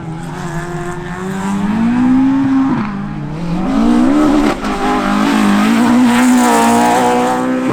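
Rally car engine revving hard under full throttle, its pitch climbing and then dropping back sharply at gear changes, about three times, with a high, steady run near the end.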